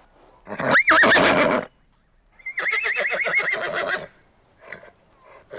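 Horse neighing. A short neigh with a sharply rising then wavering pitch comes about half a second in. A longer whinny with a fast, quavering pitch follows at about two to four seconds. Another neigh starts near the end.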